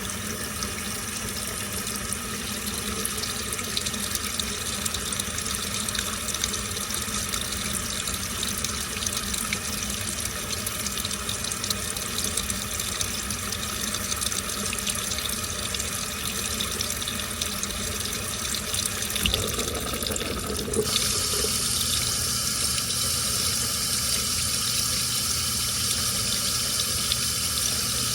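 Washing machine taking in water: a steady rush of water into the drum over a low hum. About 21 seconds in, the inflow suddenly grows louder and hissier.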